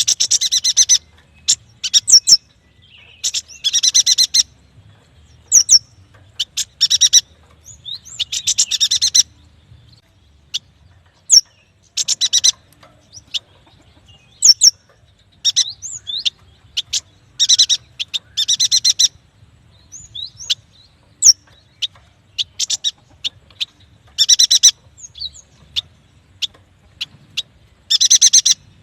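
Yuhina singing: short bursts of rapid, chattering repeated notes alternating with single sharp, high upslurred chirps, repeating every second or two.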